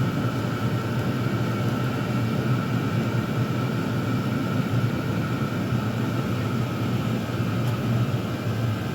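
Chinese diesel air heaters running together: a steady blower-fan whir with a constant hum and a thin whine over it. At least one has been switched off and is running its cool-down cycle, the fan clearing heat from the unit.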